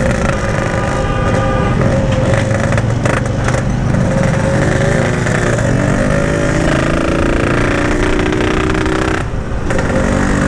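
Yamaha RX-King 135 cc two-stroke single running on light throttle while being ridden slowly, its note wavering up and down a little. The engine won't pull, which the rider puts down to an over-wet carburettor that needs setting.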